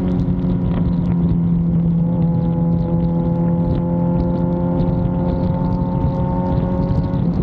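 A Suzuki GSX-R750's inline-four engine running steadily while cruising. Its pitch creeps slightly higher over a few seconds, then drops just before the end as the throttle is eased or a gear is changed.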